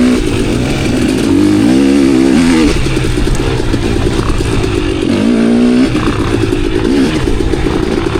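KTM enduro dirt bike engine being ridden, its pitch rising and falling with the throttle, with a hard rev climbing about a second in and another climbing steeply about five seconds in.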